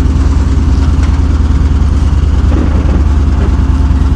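Heavy truck engine idling steadily, a loud, deep, evenly pulsing rumble.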